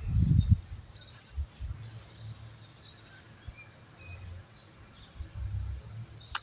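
Songbirds chirping in short, high calls scattered throughout. Low rumbles on the microphone come and go, the loudest in the first half second.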